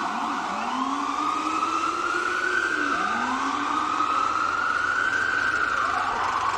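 Emergency vehicle siren switching from a quick yelp to a slow wail just after the start, then sweeping slowly up and down in pitch twice, over steady city street noise.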